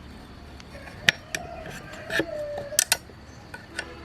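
Metal tools and parts clinking and tapping, about seven sharp irregular knocks, the loudest about a second in and near three seconds.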